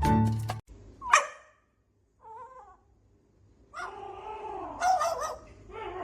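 Background music cuts off, then a pet animal calls in several short pitched yelps and whines, with a longer run of calls near the end.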